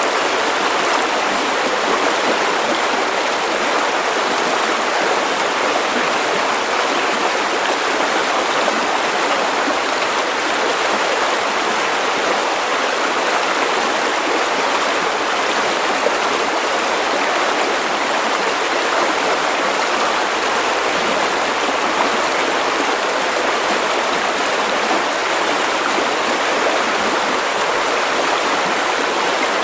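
River water running over stones, a steady rushing and burbling.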